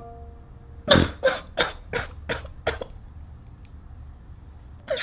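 A man crying: six quick, catching sobs in a row, about three a second and fading, then another breath near the end.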